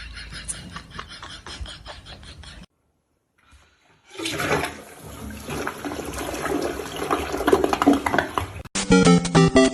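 About four and a half seconds of rushing water noise, starting after a brief gap of silence. Music with a bouncy beat cuts in near the end.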